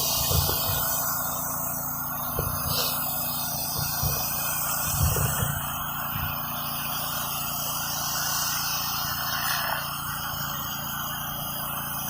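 Gas-engine pressure washer running steadily with the hiss of high-pressure water blasting concrete, with a few short low thumps, the loudest about five seconds in.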